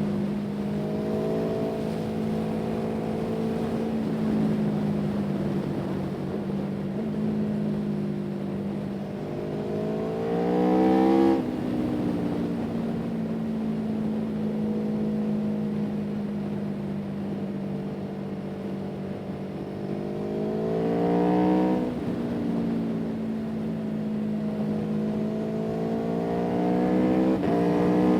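A vehicle engine running at a steady note. Three times it revs up, the pitch climbing for a couple of seconds and then dropping suddenly, as in gear changes: once a little before halfway, once about three quarters in, and once at the very end.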